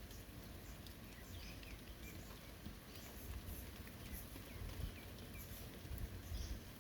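Light rain falling, with scattered drips and patters over a low rumble; a few faint, short high chirps sound through it.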